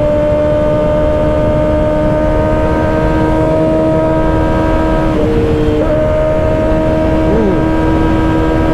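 2024 Kawasaki Ninja ZX-6R 636's inline-four engine running at a steady cruising speed under a low rush of wind and road noise. About five seconds in, the engine note dips briefly and then comes back to the same pitch.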